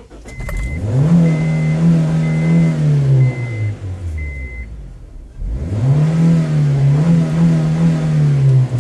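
Honda CR-V engine revved up twice and held at high revs, dropping back to idle briefly in between. A high electronic chime repeats during the first rev and then stops.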